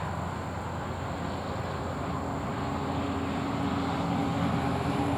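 Distant engine hum from a passing vehicle or aircraft, steady and growing slowly louder.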